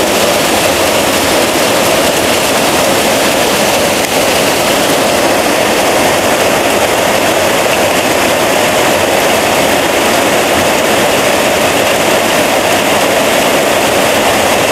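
Heavy rain coming down in a steady, even downpour.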